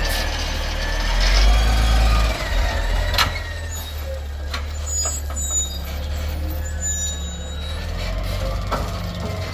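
Garbage truck engine running, loud for about the first two seconds and then settling lower, with one short sharp noise about three seconds in.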